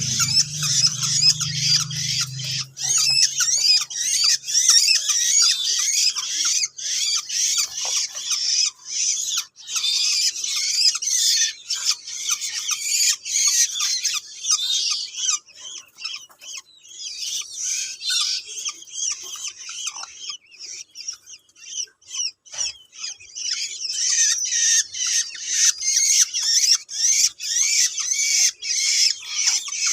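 Hand-fed long-tailed shrike (pentet) nestlings begging: a dense, continuous chorus of shrill, rapid chirps and squawks that eases off briefly about two-thirds of the way through, then picks up again.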